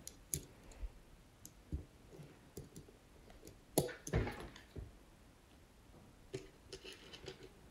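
Plastic LEGO bricks clicking as pieces are handled and pressed together, in scattered light clicks with a louder clatter about four seconds in.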